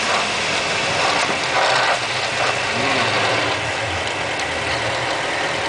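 Mitsubishi Jeep J58 running steadily, engine and drivetrain noise with a mechanical gear sound, from a transmission that is making an abnormal noise.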